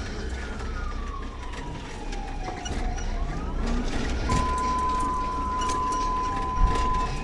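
Police siren wailing in slow rising and falling sweeps over the low engine and road rumble of the pursuing patrol car. About four seconds in, a steady high tone joins for roughly three seconds.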